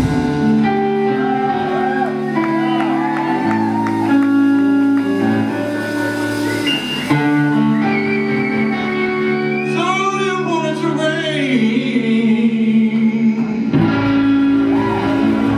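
Live blues-rock band playing: electric guitar and bass with singing, held chords under sliding, wavering melody notes.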